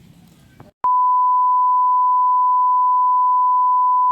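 A single steady electronic beep at one unchanging pitch, starting with a click about a second in and held without a break.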